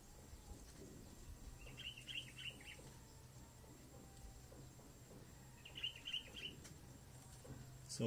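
A bird chirping in two short, rapid runs of repeated notes, about two seconds in and again about six seconds in, over a faint steady low hum.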